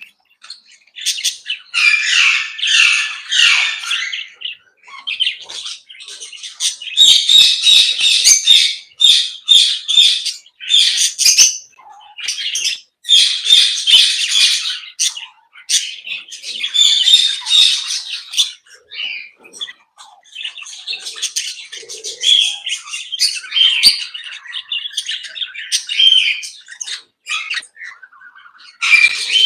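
A mixed flock of aviary parrots chattering and squawking, many calls overlapping in spells of a few seconds with short lulls between them.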